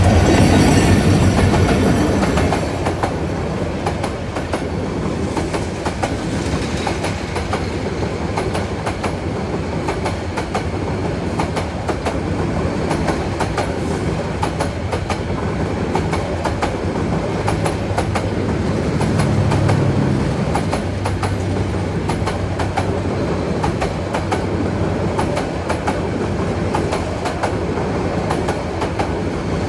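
Express train running at speed, its wheels clicking steadily over the rail joints. It is loudest in the first couple of seconds, then settles into an even clickety-clack.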